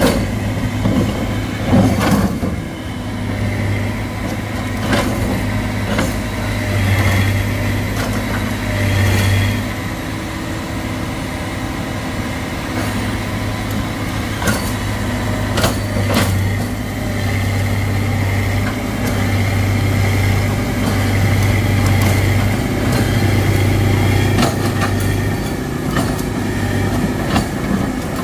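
Excavator's diesel engine running steadily under work, with a faint whine over it and scattered sharp knocks and clanks throughout.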